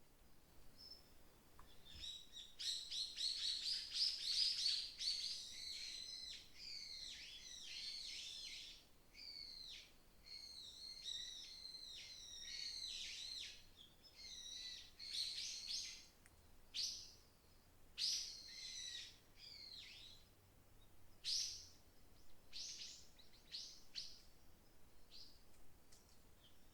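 Small songbirds singing: a dense run of rapid chirps and trills starts about two seconds in, then thins out into separate short calls toward the end.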